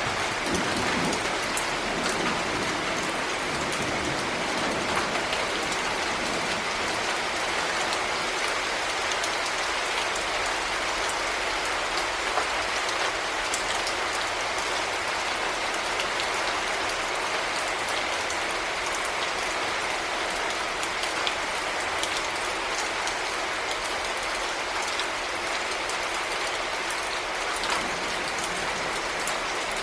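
Heavy rain falling steadily, with dense drops pattering on a surface and scattered sharper drop ticks.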